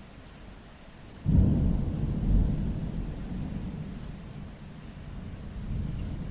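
A roll of thunder breaks in about a second in, a deep rumble that swells and then fades slowly, over steady rainfall.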